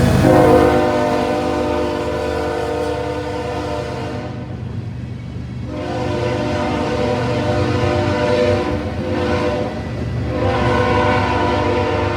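Locomotive multi-chime air horn sounding repeated long blasts, with a gap of about two seconds after the first and another short break near the end, over the low rumble of a train.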